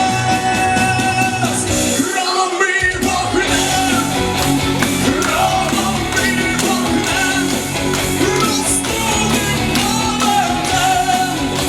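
Live rock band playing with singing and electric guitar. A long held note opens, and the bass and drums drop out briefly about two seconds in before the band comes back in.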